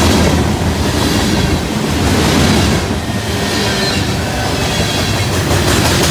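Freight cars of a mixed freight train rolling past close by: a steady noise of steel wheels running on the rails.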